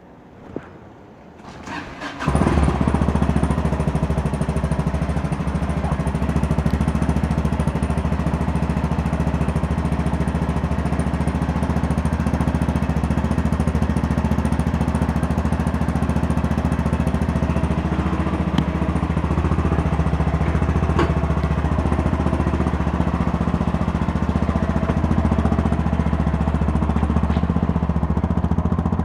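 Yamaha MT-03 motorcycle engine starting about two seconds in, then idling steadily.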